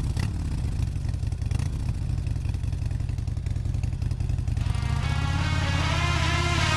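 Harley-Davidson V-twin motorcycle engine running with a pulsing low rumble. About two-thirds of the way through, music comes in over it.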